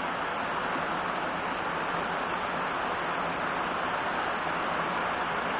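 Heavy rain falling steadily on palm fronds, grass and a paved road: an even, unbroken hiss.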